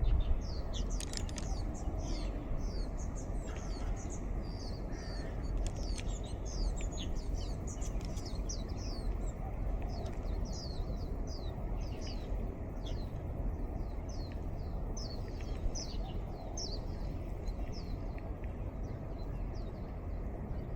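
Wild birds calling in a long run of short, high chirps, each falling in pitch, that stop near the end, over a steady breeze.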